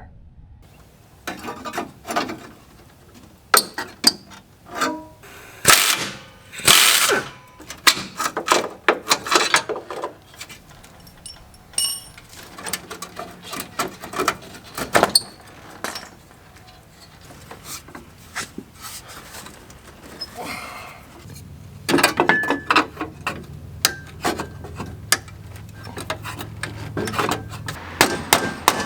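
Metalwork on a truck's cab sheet metal: repeated hammer strikes and clanks on steel, some ringing, mixed with other hand-tool noise, over background music.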